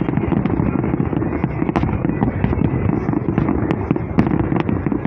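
Fireworks popping and crackling several times a second, over a dense, steady low rumble.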